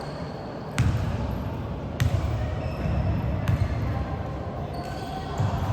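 Basketball bouncing on a gym floor during a game, with a few sharp bangs about a second, two seconds and three and a half seconds in, over the echoing noise of the hall.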